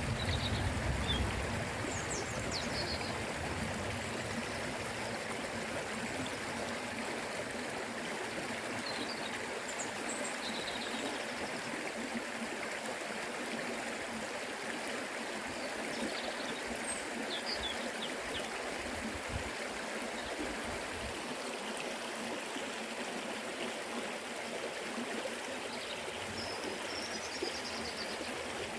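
Forest river flowing: a steady, even rush of water over stones. A few brief high chirps come and go over it.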